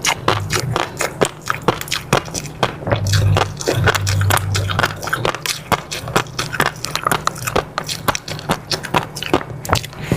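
Close-miked eating sounds: chewing with a dense run of wet clicks and pops, several a second, over a low steady hum.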